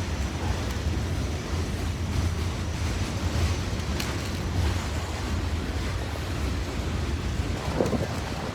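Wind buffeting the microphone: a steady low rumble with an even rushing hiss above it.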